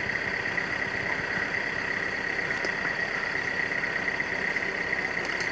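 Sugarcane truck's engine running steadily, with a constant high whine over the rumble.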